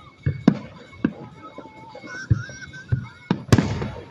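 Fireworks going off in a quick series of sharp bangs, the loudest a little after three seconds, with music playing underneath.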